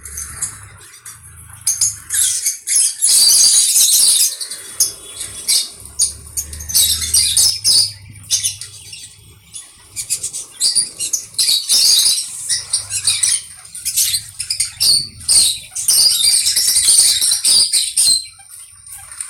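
Pet conure parrot flapping and rustling, with short squawks and chirps, in irregular bursts.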